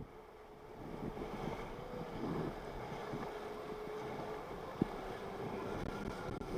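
Jet ski engine running at a steady pitch, a thin hum with a slight rise and fall about two seconds in, under wind noise on the microphone.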